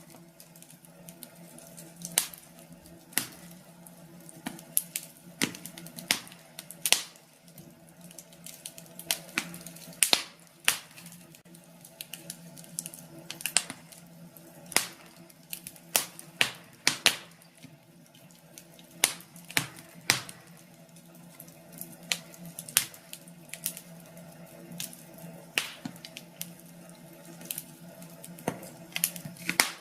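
Wood fire in a fireplace crackling, with irregular sharp pops several times a second.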